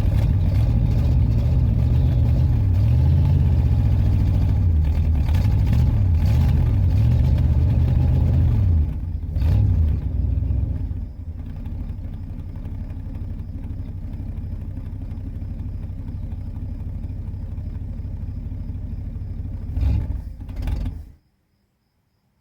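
Car engine being revved repeatedly, its pitch rising and falling, during an "Italian tune-up" with fuel system cleaner fed into the intake. About nine seconds in it drops back to a steady idle, gets one short blip near the end, and is switched off, cutting out suddenly.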